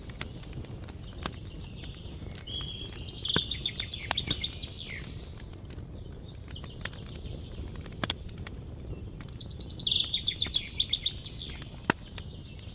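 Campfire crackling, with scattered sharp pops over a low steady rumble. A songbird sings a short trilled phrase twice, near the start and again later, louder than the fire.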